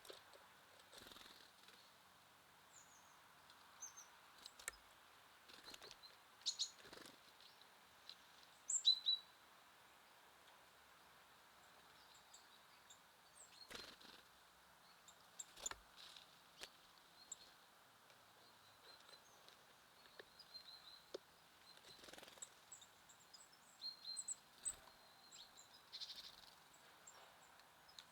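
Small songbirds giving scattered short, high chirps and calls, the loudest about nine seconds in, over a faint steady outdoor hiss, with a few soft clicks between them.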